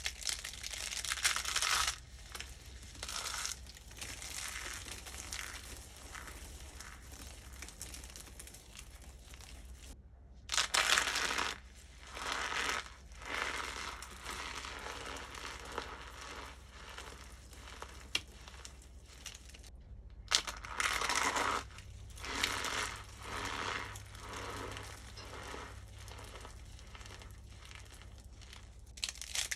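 Dry starch-coated soap being crushed and crumbled, a crunchy crackling that comes in a series of louder bursts of a second or two each, with softer crumbling in between.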